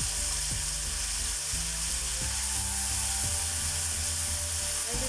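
Oil and tomato ketchup sizzling in a stainless steel pan while a metal spoon stirs, scraping against the pan in short repeated strokes about every half second.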